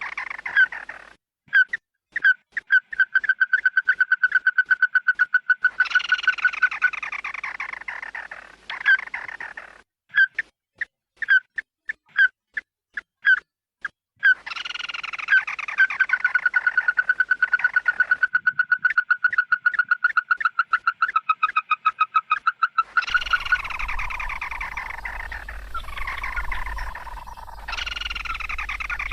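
Bird calls used as a lure: loud flock calls of the 'red-eye bird' (chim mắt đỏ), alternating sharp single chirps, long fast trills of rapidly repeated notes on one pitch, and harsh falling calls, in phrases broken by short pauses. A faint low hum joins near the end.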